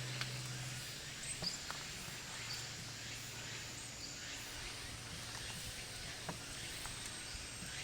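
Outdoor ambience: a steady hiss with a few sharp pops and clicks scattered through, and a low hum that fades out about a second in.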